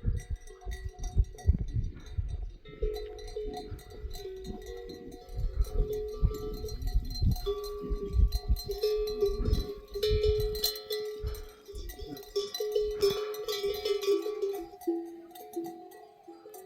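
Livestock neck bells clanking and ringing irregularly as the animals move, several bells at different pitches overlapping, with low thumps underneath.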